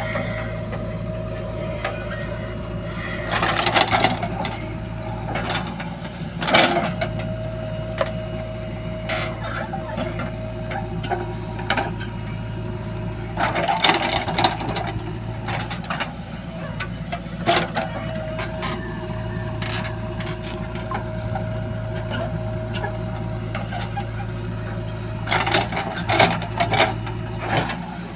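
Diesel earthmoving machinery running steadily, a backhoe loader and tractor at work, with short louder bursts every several seconds.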